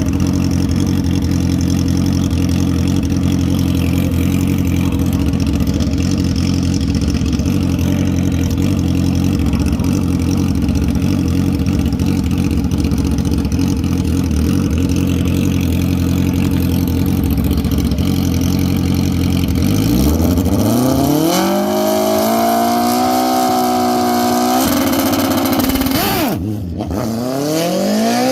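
Drag racing door car V8 engines running steadily, then about twenty seconds in a hard launch: engine pitch climbs steeply, holds, steps up with a gear change, dips briefly and climbs again near the end as the car pulls down the track.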